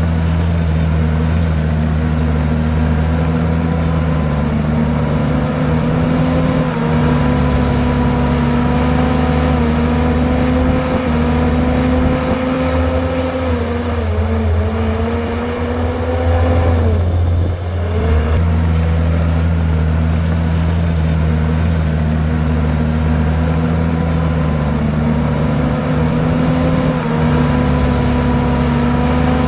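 Komatsu bulldozer's diesel engine running steadily and loudly. A little before the middle the engine pitch sags, dips sharply, then picks back up to its steady speed.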